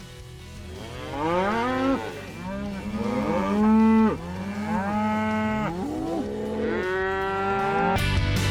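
Cattle mooing: several long, overlapping moos that rise and fall in pitch, starting about a second in. Music comes in near the end.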